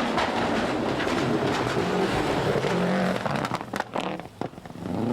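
A 1996 World Rally Championship rally car's engine running hard at speed, with loud road noise. Near the end come a few sharp cracks and a brief drop in level before it picks up again.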